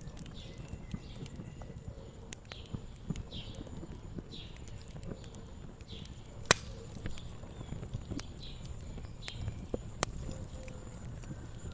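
Wood fire crackling, with many sharp pops over a low rumble; the loudest pop comes about six and a half seconds in. A small bird chirps in short downward notes about once a second in the background.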